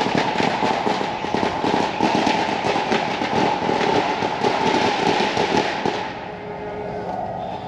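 Consumer firework going off with a dense, rapid crackle of small pops for about six seconds, then dying away.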